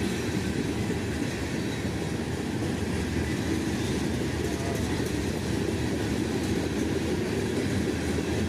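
Freight train cars rolling past, a steady noise of wheels on the rails, heaviest in the low end.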